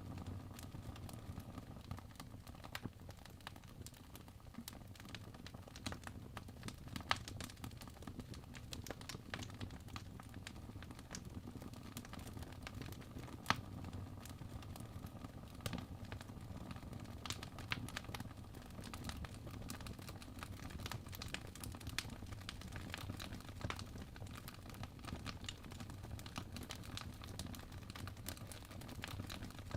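Fireplace crackling faintly: scattered, irregular sharp pops over a steady low rumble.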